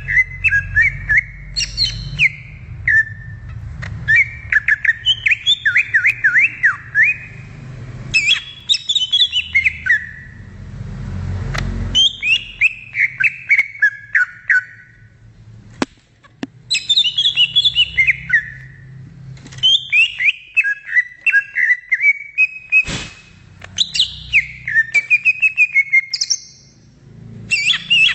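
Leafbird (cucak ijo) singing: repeated phrases of fast, varied whistled notes that slide downward, each phrase a couple of seconds long with short pauses between, over a low rumble.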